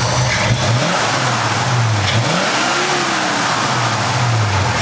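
Freshly rebuilt carbureted V8 idling and blipped on the throttle three times, the revs rising and dropping back to idle each time, the last blip near the end. It breathes through 8-into-2 headers and 2.5-inch pipes with a medium muffler.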